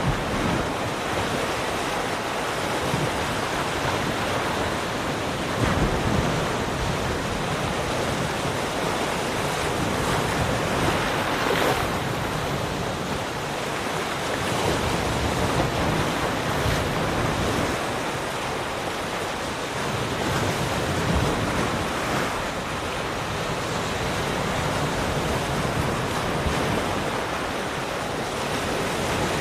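Ocean waves breaking and washing on the shore, a continuous surf noise that swells and eases every few seconds.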